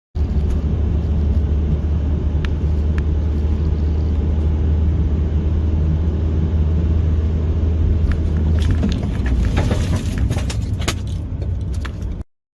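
Dashcam recording of a moving vehicle: a steady, loud low rumble of road and engine noise. About eight and a half seconds in, a cluster of sharp knocks and clatter begins and runs for a couple of seconds, then the sound cuts off suddenly.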